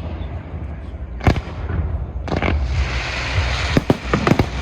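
Fireworks display: a single sharp bang about a second in, then a hissing, crackling shower starting a little past two seconds, and a quick run of sharp bangs near the end.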